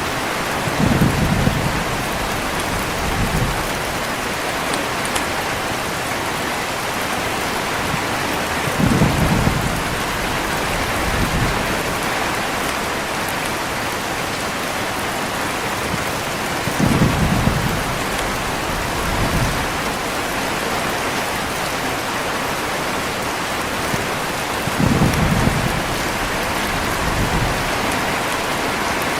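Heavy rain falling steadily, with low rolls of thunder coming about every eight seconds, four times. Each roll is followed by a weaker one about two seconds later.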